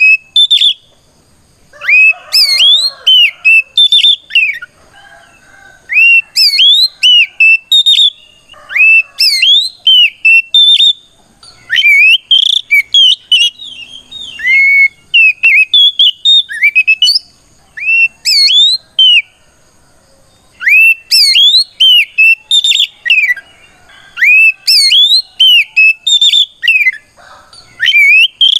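Oriental magpie-robin (kacer) singing loudly in repeated phrases of rapid, clear whistled notes that sweep up and down, with short pauses between phrases. This is its full 'ngeplong' fighting song, calling out a rival male.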